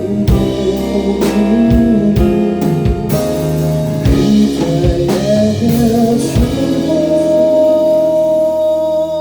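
Live band playing an instrumental passage between sung lines: drum kit hits over guitar and held chords, settling about seven seconds in onto one long sustained note.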